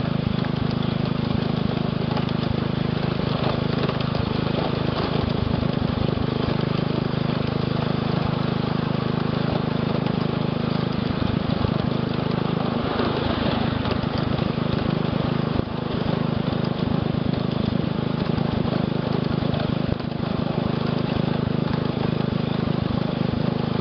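Small engine of a ride-on scale-model switcher locomotive running steadily at an unchanging pitch.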